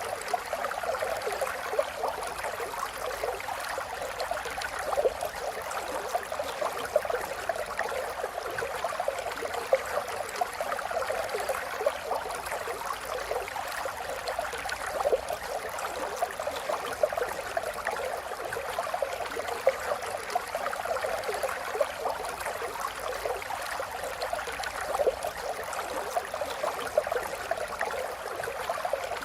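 Small stream or brook trickling and gurgling steadily, with a busy patter of small splashes.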